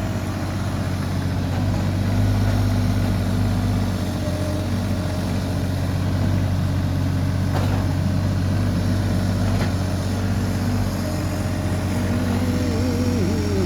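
A large vehicle engine running steadily at low speed, with a wavering whine coming in near the end.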